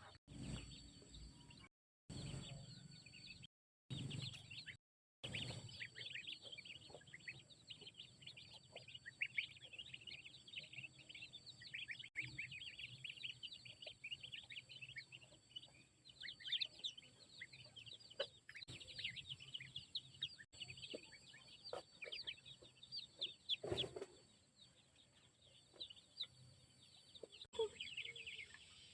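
A flock of chickens calling, with many short high chirps and clucks overlapping. The sound drops out briefly a few times in the first seconds, then the calls run thick until near the end.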